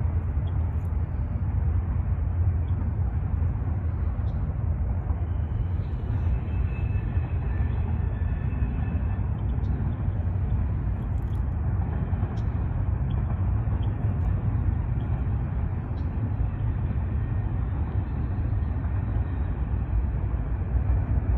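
Norfolk Southern mixed freight and intermodal train rolling past, a steady low rumble of the cars on the rails with a few faint clicks.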